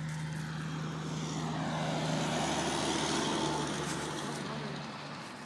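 A passing engine: a rushing drone swells to its loudest about three seconds in and then fades, over a steady low hum.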